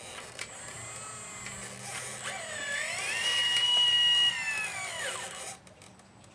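A 1/12-scale model excavator's electric motor whining under load. Its pitch rises about two seconds in, holds steady while at its loudest, then falls and cuts off about five and a half seconds in.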